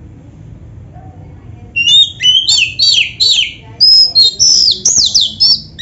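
Oriental magpie-robin (kacer) singing: about two seconds in, a loud, quick run of whistled notes begins, many of them sliding downward in pitch, over a low background hum.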